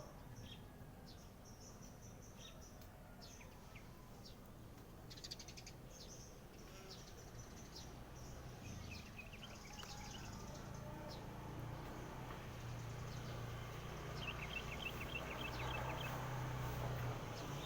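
Small birds chirping, with many short high calls and a couple of quick trilled phrases, one about halfway and one near the end. A low steady rumble underneath grows louder toward the end.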